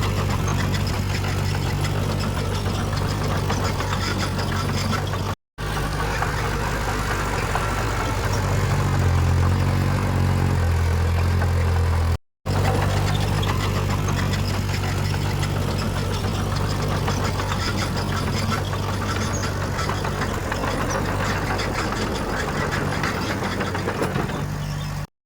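Heavy diesel earthmoving machinery running: a steady low engine drone with clatter above it, the engine note deepening and strengthening for a few seconds in the middle as if under load. The sound breaks off briefly twice.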